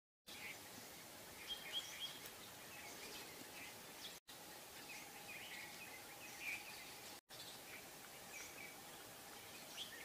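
Small birds chirping, with short calls scattered over a faint steady hiss. The sound cuts out briefly twice.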